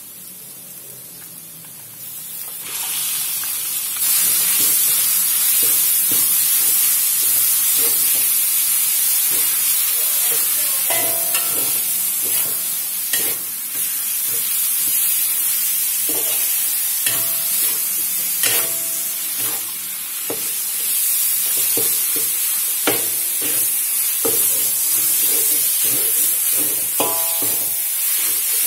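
Minced chicken breast sizzling in hot oil in a metal wok, the sizzle growing loud two to four seconds in as the meat goes in. A metal spatula scrapes and clanks against the wok, some strikes ringing briefly, as the meat is stirred and broken up.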